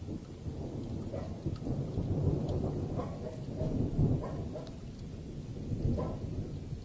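Thunder rolling over steady rain: a sudden low rumble that breaks in at the start, crackles irregularly, peaks about two to four seconds in, then eases off.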